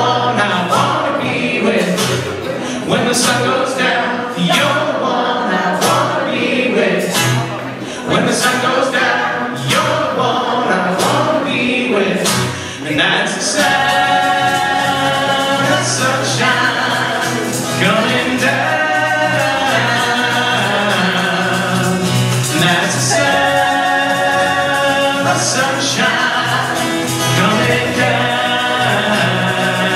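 A group of voices singing along together over a strummed acoustic guitar.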